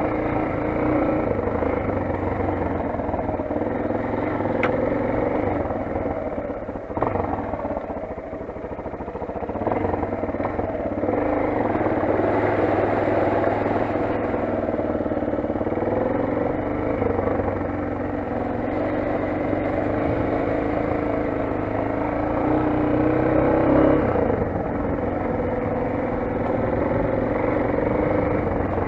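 Motoland XR 250 enduro motorcycle's single-cylinder four-stroke engine running while being ridden, its pitch and loudness shifting with the throttle. It eases off around seven seconds in and picks back up a few seconds later.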